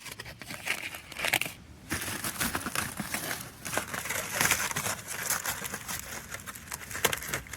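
Aluminium foil crinkling and crackling as it is handled close up around a foil-wrapped baked potato, with many irregular sharp crinkles.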